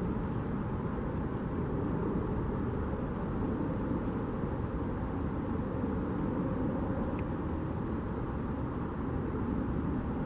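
Steady low outdoor background rumble, even throughout, with one faint short chirp about seven seconds in.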